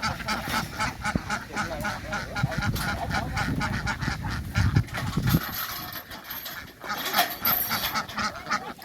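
A large flock of domestic ducks quacking continuously, many short calls overlapping in a dense chatter.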